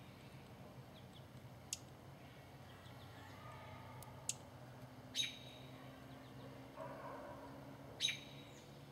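Wild birds giving a few short, sharp chirps spaced a second or more apart, the loudest about five and eight seconds in, over a faint steady low hum.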